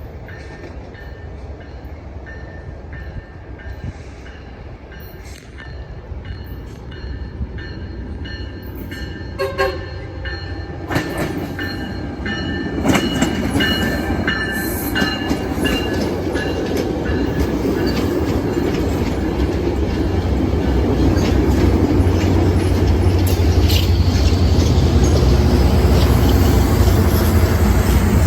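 A train approaching and passing close. Its horn sounds briefly about ten seconds in, then a rumble with wheel-on-rail noise builds and is loudest through the last third.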